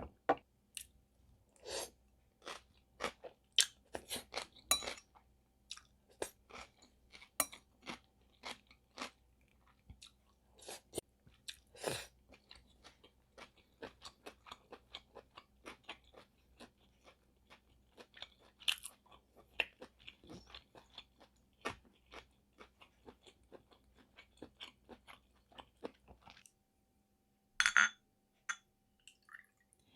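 Close-up mouth sounds of a person chewing spicy sea snail bibim noodles: wet, irregular clicks and crunches, busy at first and sparser later, with a louder burst near the end.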